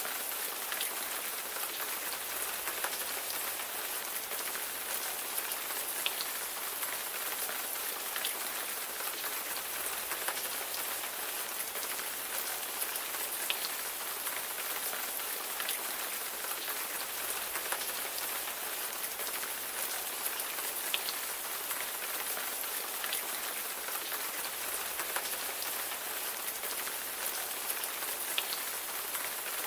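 Steady rain falling on a surface: a continuous even hiss with individual drops ticking through it.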